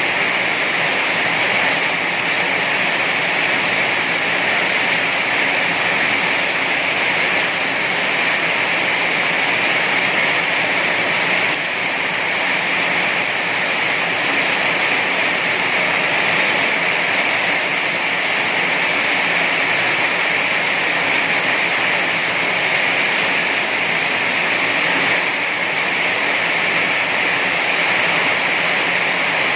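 Heavy rain falling, a steady, even hiss with no let-up and no separate drops or thunder standing out.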